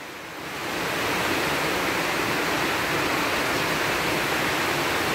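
Heavy rain pouring down onto a concrete rooftop terrace, a steady hiss of downpour that grows louder about half a second in and then holds steady.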